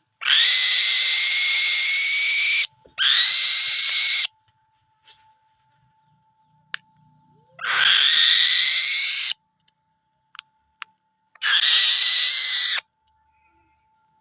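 A falcon screeching: four long, harsh screams, the first about two and a half seconds long, each starting and stopping abruptly, some rising slightly in pitch as they begin.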